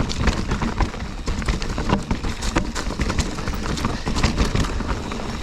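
Specialized Stumpjumper FSR full-suspension mountain bike rolling fast over rocky trail, with tyres crunching and the frame and chain rattling in quick, irregular knocks. Wind rumbles on the helmet-mounted microphone.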